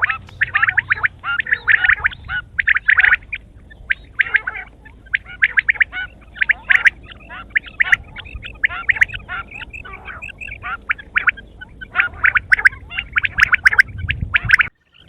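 Quail calling in rapid chattering bursts of many short, sharp notes, one cluster after another. The sound cuts out for a moment near the end, then starts again.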